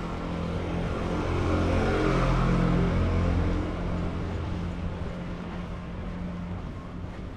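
A motor vehicle driving past on the street: its engine and tyre noise grow louder, peak about two to three seconds in, then fade away.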